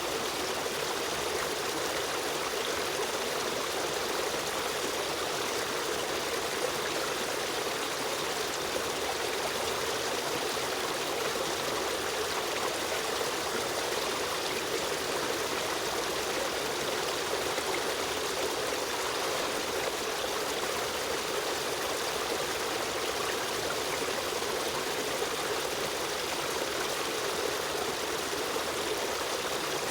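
A river stream running steadily, a continuous even rush of flowing water with trickling.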